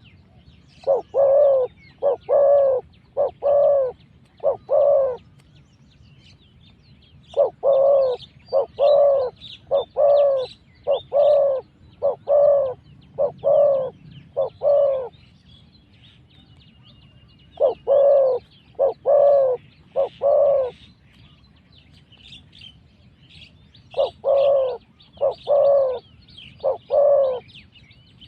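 Spotted doves cooing: loud, evenly spaced coo notes in runs of four to eight, with pauses of a few seconds between runs. Faint chirping of small birds behind.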